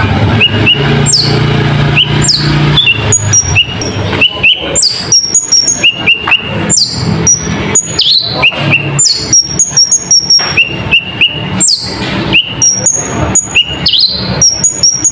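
Kolibri ninja sunbird singing fast and without pause, a string of sharp downward-sweeping high chirps mixed with short rising notes and brief level whistles, its song filled with learned cabak iblis calls.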